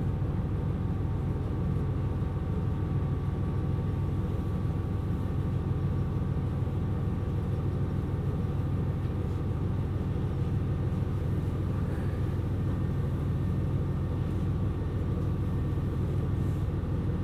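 KiHa 127 series diesel railcar running, heard from inside the car: a steady low rumble with a faint steady whine above it.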